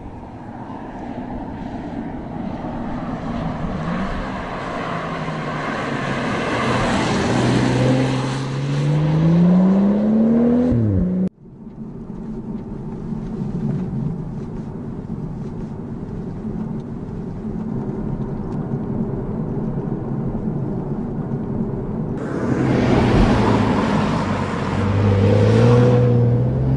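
BMW 4 Series Gran Coupé accelerating, its engine note climbing steadily in pitch. After a sudden cut it runs quieter and more steadily, as heard from inside the cabin. Near the end it accelerates hard again, the engine note rising once more.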